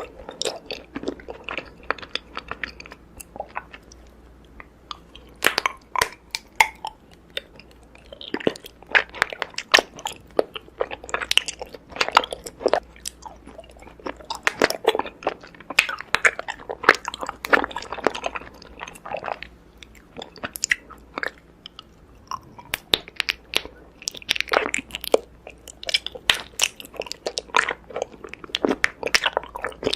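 Raw honeycomb being bitten and chewed close to the microphone, a dense run of irregular crunchy clicks as the wax comb breaks between the teeth.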